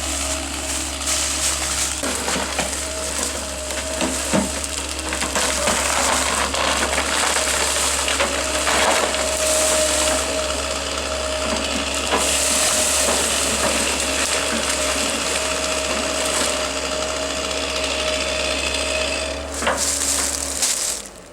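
A motorised wood-cutting machine running steadily under load, with a constant tone and a crackling, clicking rush as it works through wood. It cuts off abruptly near the end.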